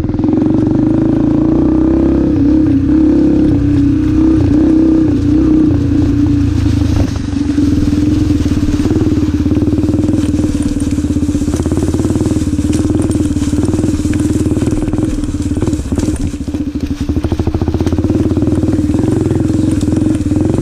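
Yamaha TT-R125 dirt bike's air-cooled single-cylinder four-stroke engine running under throttle, its pitch rising and falling as the throttle is worked. It eases off briefly about seven seconds in and again around sixteen seconds.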